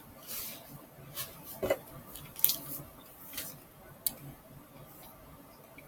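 Close-miked wet chewing and lip smacks of someone eating a soft burrito: a scatter of short, sharp mouth clicks and squishes, the sharpest about two and a half seconds in.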